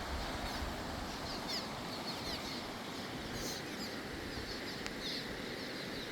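Birds chirping over and over in short, quick, high notes, over a steady rush of flowing river water.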